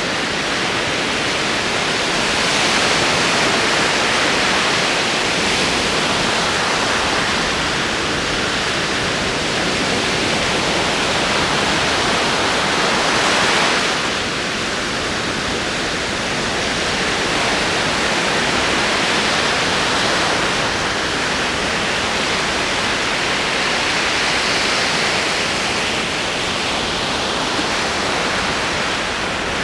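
Ocean surf: a continuous wash of rolling waves that swells and eases every several seconds, dipping noticeably about halfway through.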